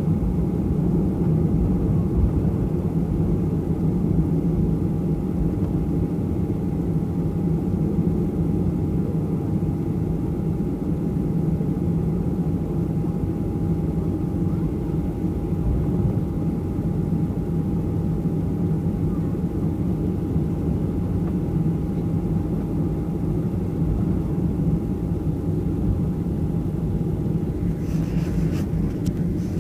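Cabin noise inside a Boeing 737 taxiing: the jet engines at low taxi power and the rolling aircraft make a steady low rumble, with a faint steady whine running through it. A few brief clicks sound near the end.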